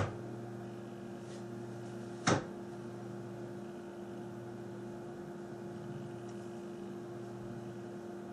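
Steady electrical hum, several fixed tones, with one sharp click a little over two seconds in.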